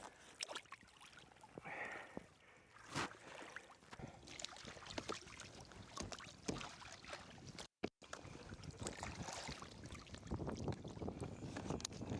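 Water splashing and sloshing around a Trak 2.0 kayak during a self-rescue after a wet exit, with irregular splashes and knocks. The audio drops out briefly about two-thirds of the way through.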